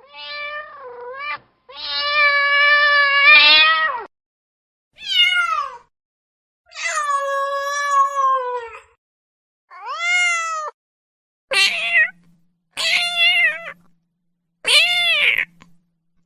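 Domestic cat meowing over and over: about eight separate meows, two of them long and drawn out, the longer one falling in pitch, with clean silent gaps between calls.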